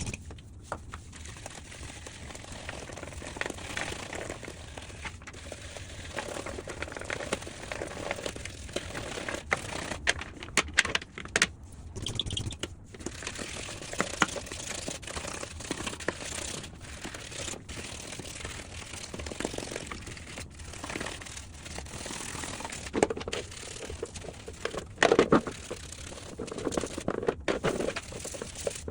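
Cleaning a plastic washing-machine filter by hand: irregular scrubbing and rustling with scattered clicks and knocks, louder handling noise in a few bursts.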